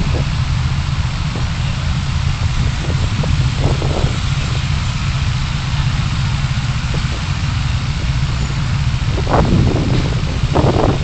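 Car engine and road noise picked up by a dashcam inside the car: a steady low rumble under an even hiss, with a few short louder bursts near the end.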